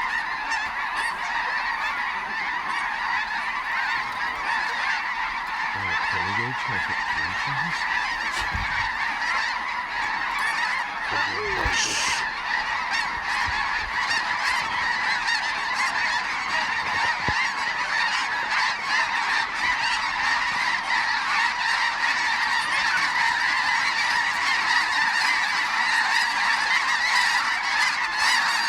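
Snow geese calling: a dense, unbroken chorus of many birds honking at once, growing slightly louder.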